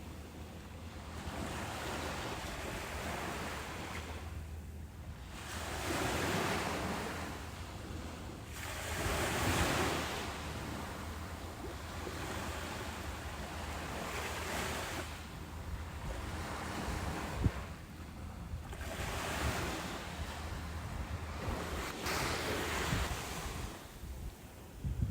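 Ocean waves breaking and washing up on a beach, the surf swelling and fading every few seconds over a steady low rumble.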